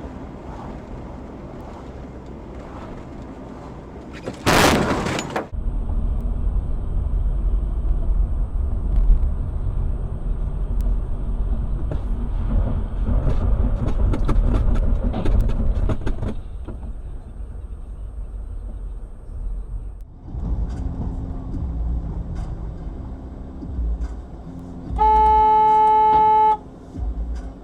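Car interior and road rumble from dashcam footage, with a sudden loud noisy burst about five seconds in. Near the end a car horn sounds one steady blast of about a second and a half.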